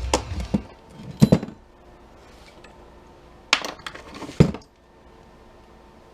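Small metal parts clinking and knocking as they are handled and set down, a handful of separate sharp strikes: one near the start, one about a second in, and two more between three and a half and four and a half seconds in.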